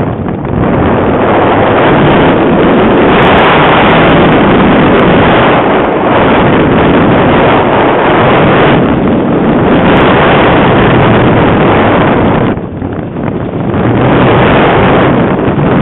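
Heavy gusting wind buffeting the microphone as a loud, rushing roar that swells and eases, with a short lull about thirteen seconds in.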